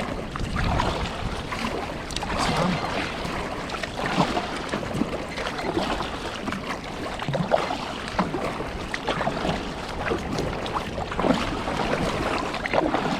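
Water splashing and lapping around a kayak at sea, with wind buffeting the microphone.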